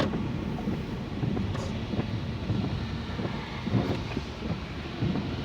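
Car on the move: a steady low rumble of engine and road noise, with a few faint ticks.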